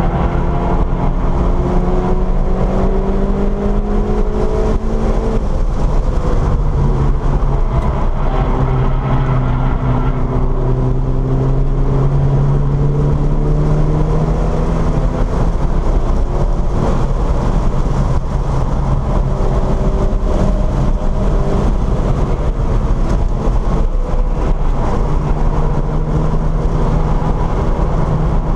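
VW Scirocco's engine under hard acceleration, heard from inside the cabin. Its pitch climbs slowly through long pulls and falls away as the revs drop, about five seconds in and again around fifteen seconds. Heavy road and wind noise runs underneath throughout.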